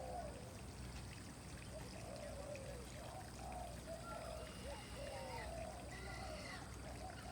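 Several birds calling with many short, arching calls, some higher chirps joining about four seconds in, over a steady rush of flowing water.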